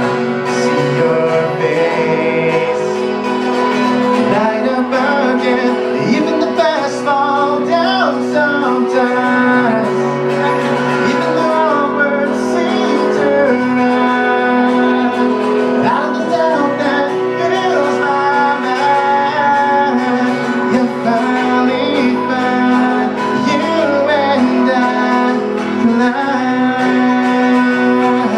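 Acoustic guitar played live, with singing over it.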